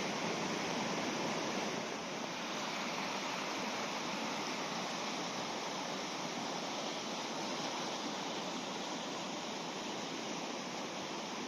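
Fast-flowing river rushing: a steady wash of water noise, slightly quieter from about two seconds in.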